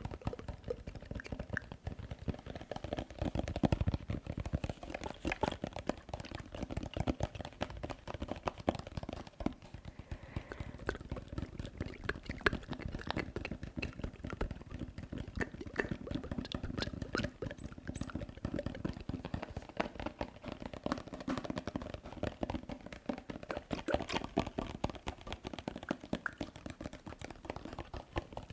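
Close-miked ASMR tapping and wet mouth sounds: a dense, irregular stream of small clicks and taps.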